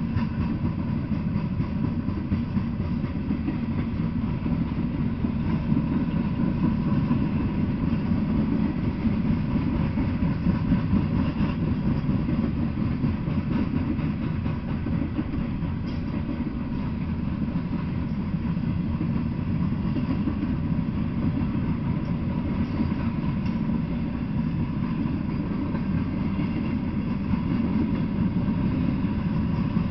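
Norfolk Southern coal hopper cars of a freight train rolling past, a steady low rumble of steel wheels on the rails.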